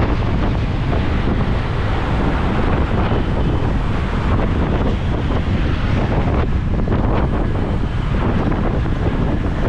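Wind buffeting a GoPro's microphone on a moving motorbike: a loud, steady rumble of wind noise that covers the road sounds underneath.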